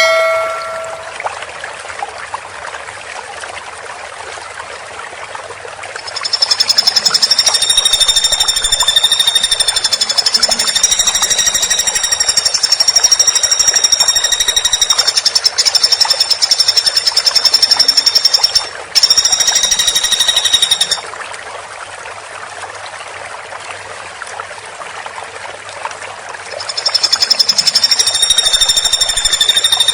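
Woodpecker giving a long, very fast, high-pitched rattling trill that runs for about fifteen seconds with a brief break near its end, then starts again near the end, over a steady hiss.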